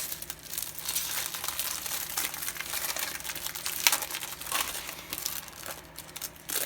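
Small plastic bags of diamond painting drills crinkling as they are handled and packed back in, with scattered sharper crackles, the loudest about four seconds in.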